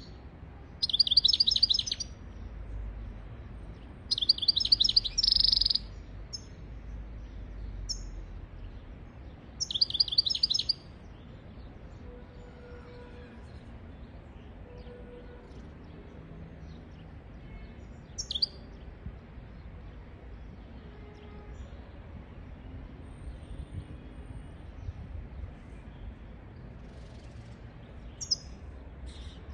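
European goldfinch singing: three short bursts of rapid, high twittering trills in the first half, then only a couple of isolated single chirps.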